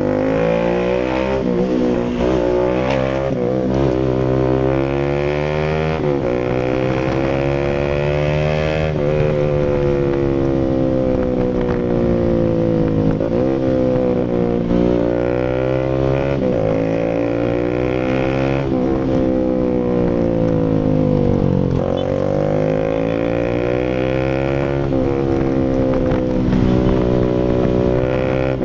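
Bajaj Rouser RS200's single-cylinder engine running through an SC Project full exhaust. The revs climb and fall over and over, with a sudden drop in pitch every few seconds.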